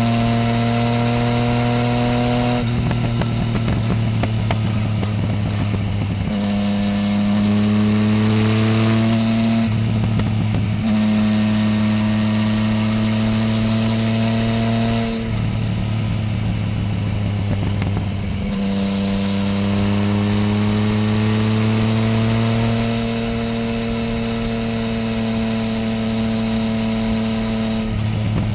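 Yamaha Tracer 900 GT's three-cylinder engine running through a full Roads Italia exhaust while riding. The note holds steady or climbs gently under throttle, and several times it drops into a short, rougher off-throttle stretch before pulling again.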